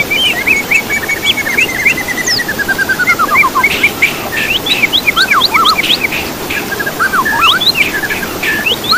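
Songbirds chirping and trilling in whistled notes, with a quick run of notes sliding down in pitch over the first few seconds, then rising chirps and short trills. A steady rushing noise runs underneath.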